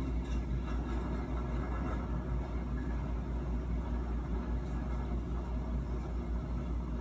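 Steady low rumble of a train running along the track, from a driver's-cab ride video played through a screen's speaker and re-recorded.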